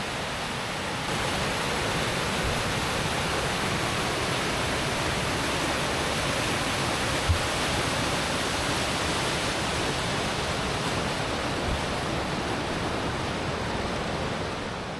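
Steady rush of river water pouring over a rocky cascade, a little louder from about a second in, with one brief thump about seven seconds in.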